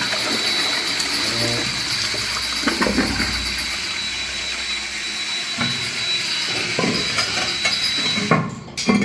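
Water rushing steadily through a pipe or hose to fill a tank, a loud even hiss with a thin high whine, cutting off suddenly near the end.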